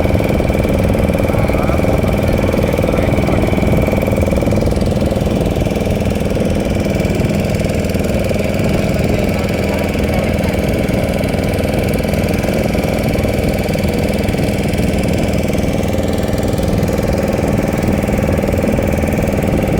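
Motorboat engine running steadily, a continuous low drone.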